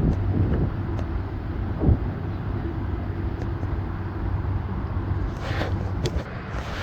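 Steady rumble of road traffic, with a brief low thump about two seconds in.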